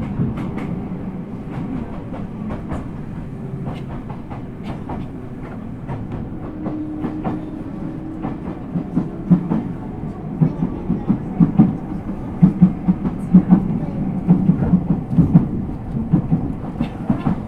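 Running sound of an Ueda Electric Railway 1000 series electric train (Toyo GTO-VVVF control) heard from inside the car: a steady low rumble of wheels on rail. About halfway in, a quick, regular clickety-clack of wheels over rail joints sets in and carries on.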